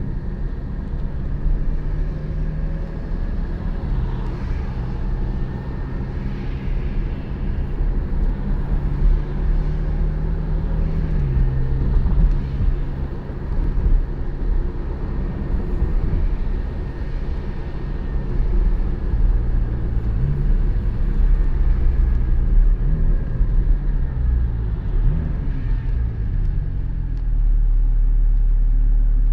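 Porsche 718 Spyder's 4.0-litre flat-six engine running while driving, over tyre noise on a wet road. The engine note holds steady with a few changes in pitch, then rises and falls several times in the second half as the revs change.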